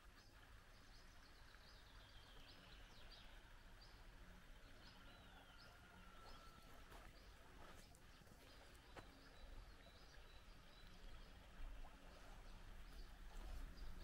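Near silence with faint, scattered bird calls: many short high chirps and a few falling whistles.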